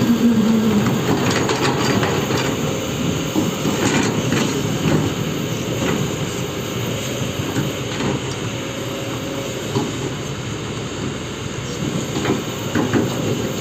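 Excavator working, engine running under a steady mechanical din with scattered metallic clanks and short squeals from the steel tracks.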